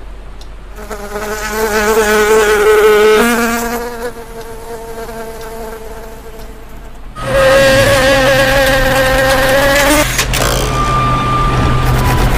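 Cartoon sound effect of a flying insect's wings buzzing, a wavering pitched drone. One buzz swells about a second in and fades by about four seconds. A second, louder buzz comes in about seven seconds in and cuts off about ten seconds in, over a low steady hum.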